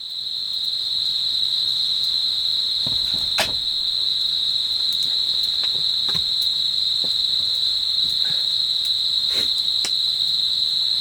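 Insects trilling in one steady, unbroken high-pitched drone, with a few faint clicks scattered through it.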